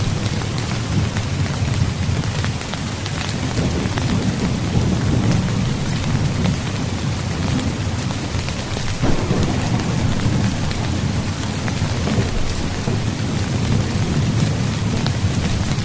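Steady rain falling on a tent, with scattered raindrop ticks over a continuous deep low rumble.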